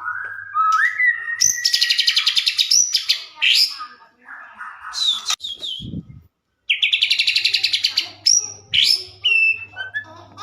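White-rumped shama (murai batu) singing: whistled glides broken by fast rattling trill phrases, with a brief break just after six seconds in.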